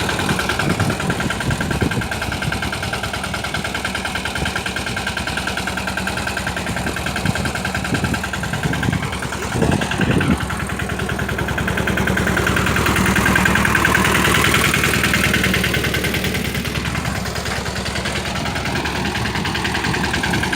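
Mini tractor engine running steadily, with a few knocks about halfway. The engine speeds up about two-thirds of the way through, then settles back.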